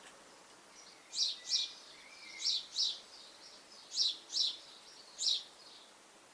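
Small garden birds chirping at a busy feeder: short high-pitched chirps, mostly in quick pairs, about every second.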